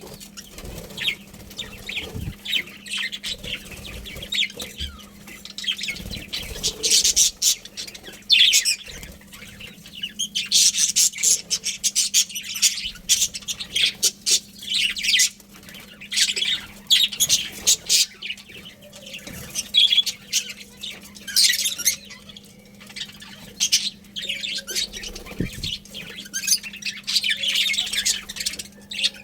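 A colony of budgerigars chirping and chattering, many birds at once in continuous overlapping bursts, over a low steady hum.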